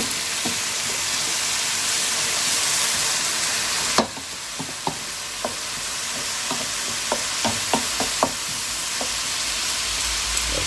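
Onion, garlic and ginger sizzling in hot oil in a wok, with a wooden spatula scraping and tapping the pan as it is stirred. The sizzle drops suddenly about four seconds in, after which a run of sharp spatula taps stands out.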